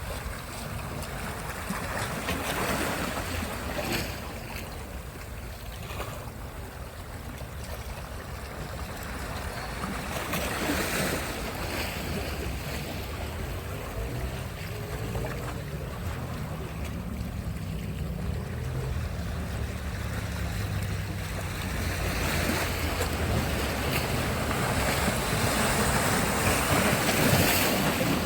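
Sea waves washing onto a beach, swelling and ebbing every few seconds and building louder near the end, with wind buffeting the microphone.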